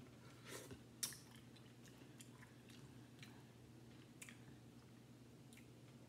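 Faint close-up chewing of corn on the cob: scattered soft crunches and mouth clicks, the loudest about a second in, over a low room hum.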